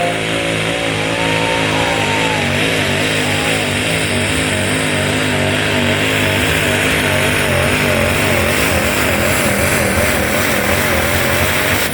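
Duramax turbo-diesel engine in a 1950 GMC pulling truck running hard under full load on a truck pull, its pitch wavering up and down with a strong hiss. It drops off suddenly at the end as the pull finishes.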